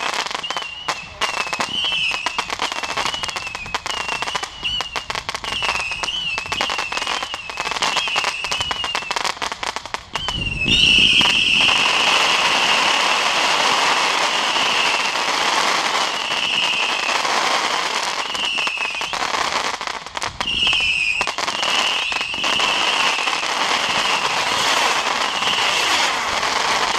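Fireworks going off: rapid crackling pops under a wavering high whistle. About ten seconds in, a low bang is followed by a louder, denser hiss and crackle.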